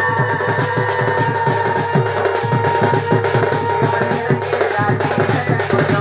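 Folk drumming with a melody instrument: rapid, dense drum strokes under a few steady held notes.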